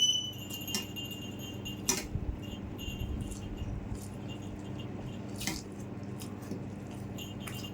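Light metallic clinks and jingling from people eating rice and curry by hand off plates, a few sharper clicks standing out, over a steady low hum.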